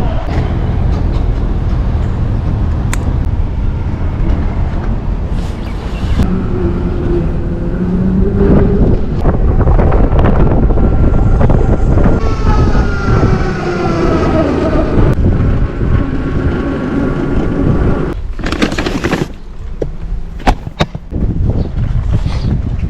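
Wind buffeting the microphone while riding an electric motorcycle, with a whine through the middle that rises and then falls in pitch. A short loud rush of noise comes a few seconds before the end.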